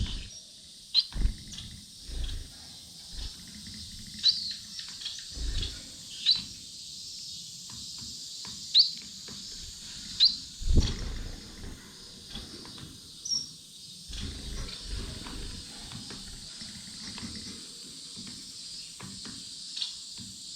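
Cage finches (Gouldian finches, society finches and canaries) giving short, sharp high chirps every second or two over a steady high chatter. Soft low thumps and rustles of the birds moving close by, loudest about a second in and about halfway through.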